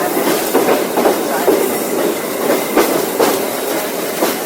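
Heritage steam train's carriages rolling along the track with a steady rattling rumble, and the wheels clicking sharply over rail joints several times at uneven intervals.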